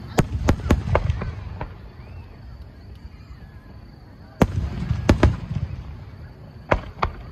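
Aerial firework shells bursting in quick volleys of sharp bangs: about six in the first second and a half, another four starting about four and a half seconds in, and three near the end. A low rumble lingers after each volley.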